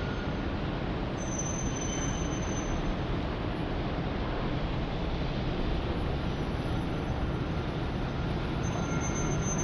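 Steady city traffic rumble, with faint thin high squeals about a second in and again near the end.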